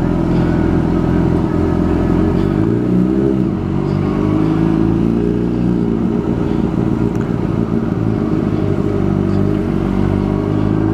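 Motorcycle engine running while under way, with steady road and wind rumble. Its pitch dips and climbs again about three seconds in, then holds fairly steady.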